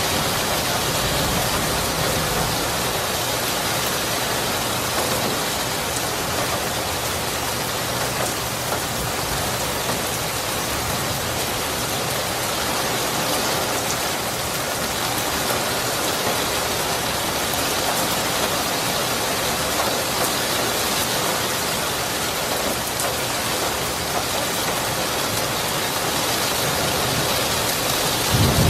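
Steady, dense rain falling, with a low rumble of thunder swelling in near the end.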